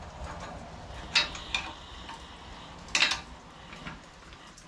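Hand tools clinking and tapping against metal motorcycle parts: a couple of sharp metallic clinks about a second in and a louder one about three seconds in, over a low steady hum.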